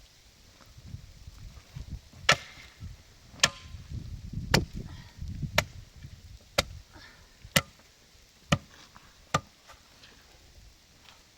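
Sharp blows on wood, eight in all, about one a second, with softer knocks and thuds between them.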